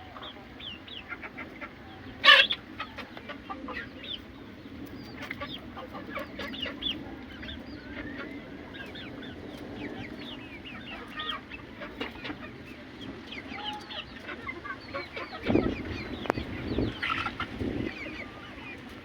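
Aseel chickens clucking, with many short, high chirping calls throughout. A sharp, loud noise comes about two seconds in, and a few low thuds come near the end.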